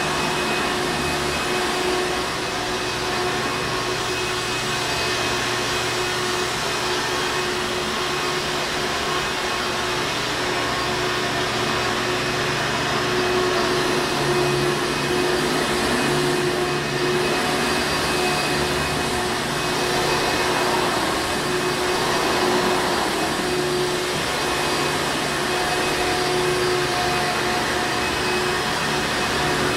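Hoover Encore Supreme upright vacuum cleaner running steadily: a continuous motor drone with a steady whine, unchanging throughout.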